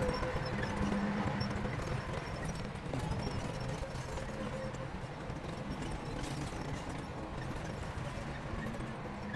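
Shantui bulldozer's diesel engine running steadily under a fast, even clatter.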